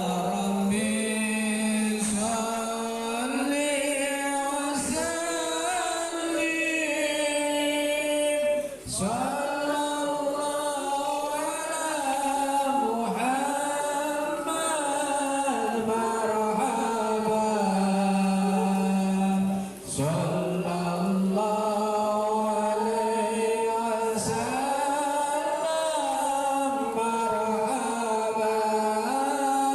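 Sholawat, Islamic devotional chant, sung by voices together in long, drawn-out melismatic lines, with brief pauses for breath about 9 and 20 seconds in.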